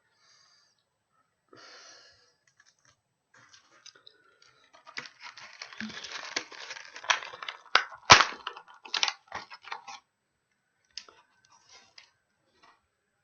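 Packaging being torn open and handled: bursts of crackling and tearing with sharp clicks, the loudest snap about eight seconds in, then a few scattered clicks.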